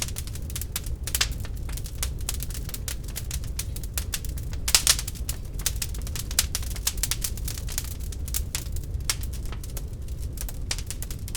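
Real wood fire in a fireplace crackling, with a dense run of irregular sharp pops and snaps over a steady low rumble; a burst of louder pops comes about five seconds in.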